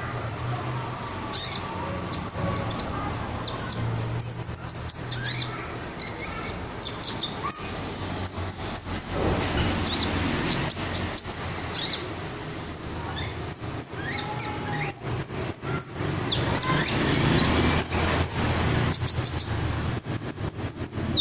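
Red-breasted sunbird (kolibri ninja) singing: a long run of high, thin chirps and quick twittering trills, with short pauses between phrases.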